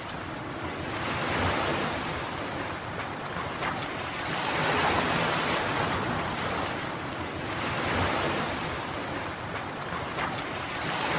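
Waves washing on a shore: a rushing noise that swells and fades about every three to four seconds.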